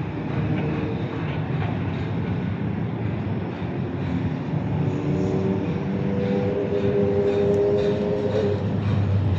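Steady rumble of a moving vehicle, with a hum that grows stronger about halfway through and fades out near the end.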